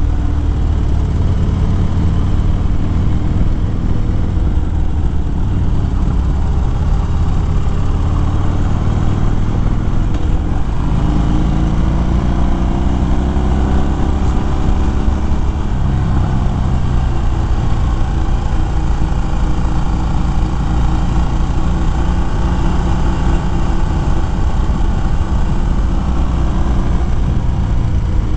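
Harley-Davidson Fat Bob's V-twin engine running under way, over a steady rush of road and wind noise; from about eleven seconds in the engine note rises as the bike accelerates.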